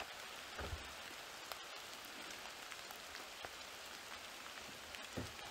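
Faint, steady rain falling, with scattered small drop ticks. Two soft low thumps stand out, one about half a second in and one near the end.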